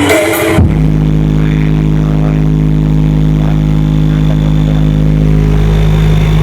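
Loud music from a sound system cuts off abruptly about half a second in. After that an engine runs steadily at idle, a loud, even low drone.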